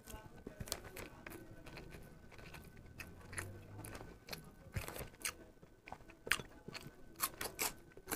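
Close-miked chewing of rice and curry eaten by hand, with irregular wet mouth clicks. The clicks come more often in the last few seconds.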